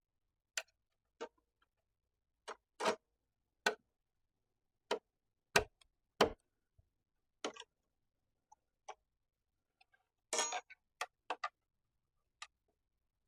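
Irregular, sharp clicks, taps and knocks of hand tools and saw parts being handled during the job, with a brief rattle about ten seconds in.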